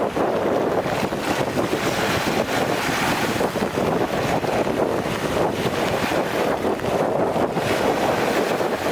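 Strong typhoon wind buffeting the microphone over waves on a lakeshore: a steady, loud rush with constant gusty fluctuations.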